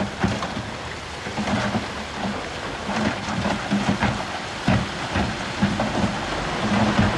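Bulldozer's diesel engine running under load, with repeated knocks and clanks throughout.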